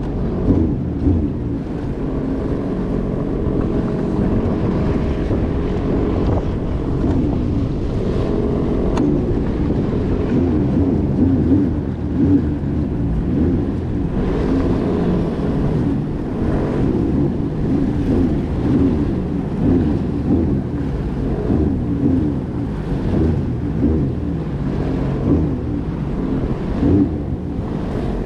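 Jet ski engine running steadily as it rides over the water, its pitch wavering slightly, with wind buffeting the microphone.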